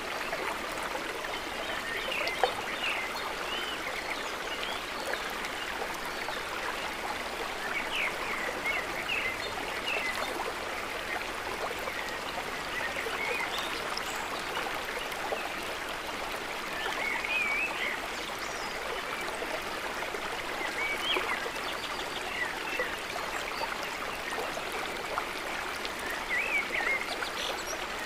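Steady trickling, gurgling water: a gentle lakeside trickle, with brief high-pitched wavering sounds every few seconds.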